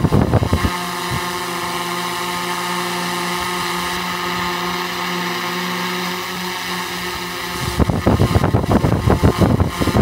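Camera drone's propellers humming in a steady hover, a stack of even tones. Gusty rumble buffets the microphone for the first half-second and again from near the end.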